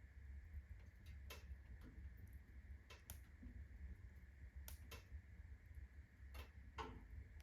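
Unsplit birch logs burning in a fireplace at full blaze: faint, irregular crackles and pops, about seven, over a low rumble.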